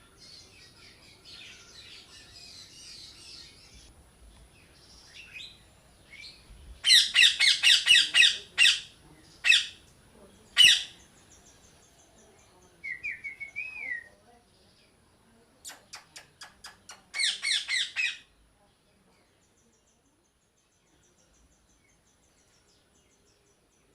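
A parrot squawks in fast harsh bursts of several calls, with single sharp squawks between and a short warbling whistle. Near the end it falls quiet.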